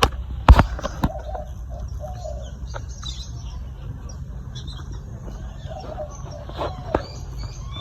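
Small birds chirping and calling throughout, with a sharp knock about half a second in and a couple of smaller knocks later, over a steady low rumble.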